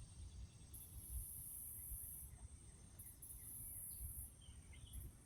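Faint outdoor ambience: very high-pitched insect trilling that starts and stops in stretches of about a second, over low wind rumble on the microphone, with a few faint bird chirps near the end.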